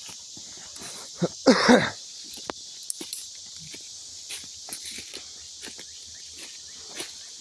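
Steady high insect chorus of crickets, with scattered short crunches and clicks of footsteps and handling in the woods, and one brief louder burst about one and a half seconds in.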